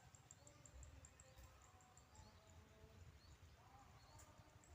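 Faint outdoor ambience: short high chirps repeating several times a second, over a low rumble.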